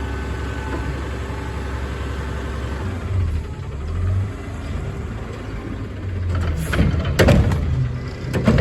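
Peterbilt 520 garbage truck's diesel engine running, with a steady whine that stops about three seconds in. The engine revs up twice, and there are several sharp metallic clanks near the end.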